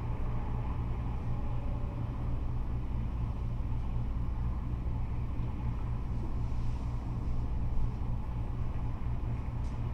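Steady low rumble of interstate freeway traffic, cars and trucks going by.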